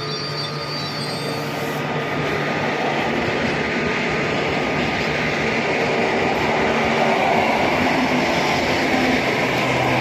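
A train running past on the track, its rolling noise growing steadily louder.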